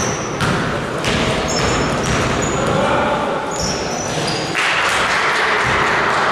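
Basketball bouncing on a gym floor with short high squeaks and voices echoing in a large hall; a louder rush of noise comes in about two-thirds of the way through.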